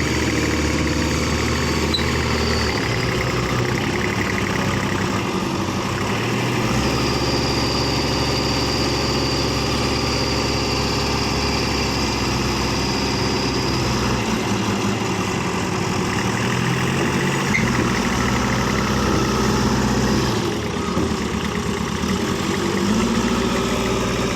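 Farm tractor's diesel engine running steadily, its engine note shifting up and down several times.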